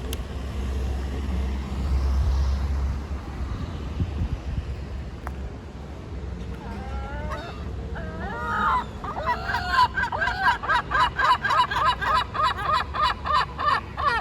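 Gull calling: a few single cries about seven seconds in, then a fast run of loud repeated cries, about three a second, from about ten seconds to the end. A low wind or traffic rumble lies underneath in the first half.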